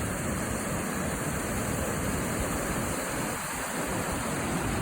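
Floodwater of the Mississippi River pouring through the Coon Rapids Dam at record high water: a steady, even rushing.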